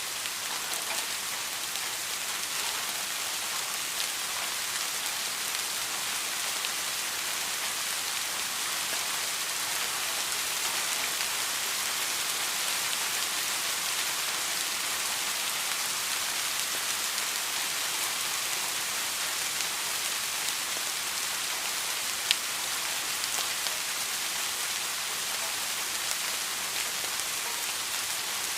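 Steady rain falling, a constant hiss with scattered drop ticks, and one sharper drop about 22 seconds in.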